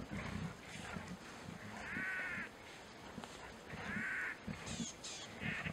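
A bird calling with harsh, crow-like caws: two drawn-out calls about two seconds apart and a shorter one near the end, over a faint low rumble.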